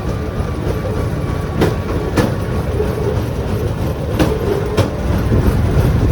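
Rail bike's steel wheels rolling along the track with a steady low rumble, and sharp clicks in two pairs about two and a half seconds apart, like wheels crossing rail joints.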